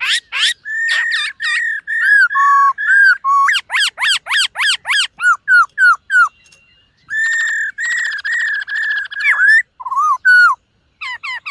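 Black-throated laughingthrush singing a loud, varied whistled song: quick runs of swooping whistles, clear held notes and a short fast trill, with a brief pause about two-thirds of the way through.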